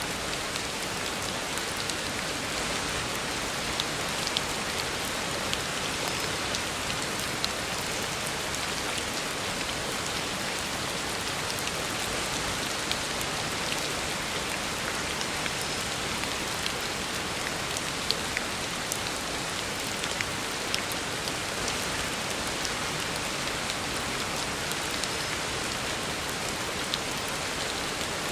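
Heavy rain falling steadily on a road surface: a dense, even hiss of rain with scattered sharper ticks of single drops.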